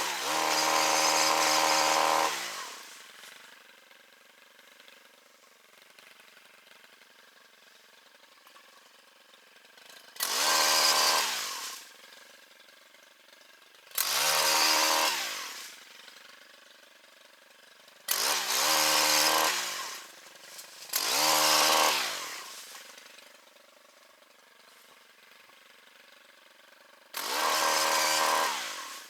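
Small two-stroke chainsaw revved in six short bursts of about two seconds each, every burst winding down to a quiet idle before the next.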